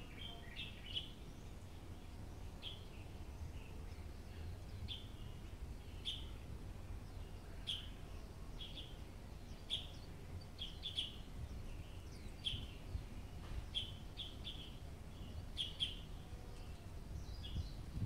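Small birds chirping, short sharp calls repeated irregularly about once a second, over a steady low outdoor rumble.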